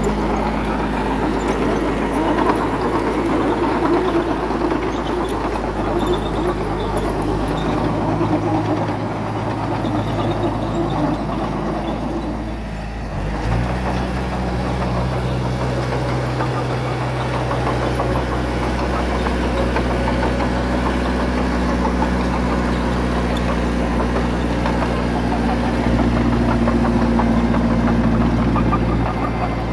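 A heavy diesel engine of construction machinery runs steadily. About halfway through its note dips briefly, then it settles at a new, steady pitch.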